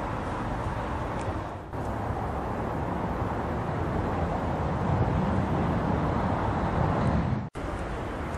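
Lamborghini Gallardo V10 engine and exhaust running, a steady, rough noise with strong low end that grows louder about five seconds in, then cuts out for an instant near the end.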